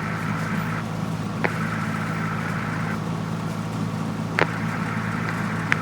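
Cessna 172F's six-cylinder Continental O-300 engine running steadily at low taxi power, heard inside the cockpit, with two sharp clicks about a second and a half and about four seconds in.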